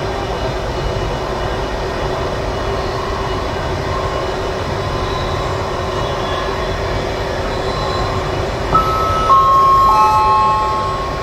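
Passenger train running at speed on the rails, a steady rumble heard from its last carriage. Near the end, a squeal of several steady high tones comes in one after another and holds for about two seconds, louder than the rumble.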